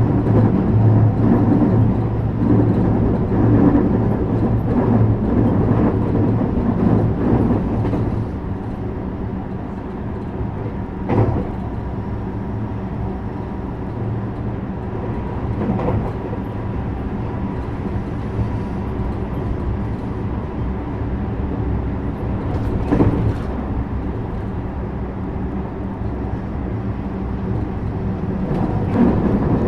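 JR West 321 series electric commuter train running, heard from inside the car: a steady rumble of wheels on rail with a continuous motor hum, louder for the first several seconds and then settling slightly lower. A few single sharp clicks stand out along the way.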